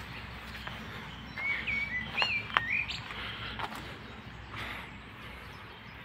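A bird chirping a few short whistled notes, between about one and a half and three seconds in, over steady low background noise.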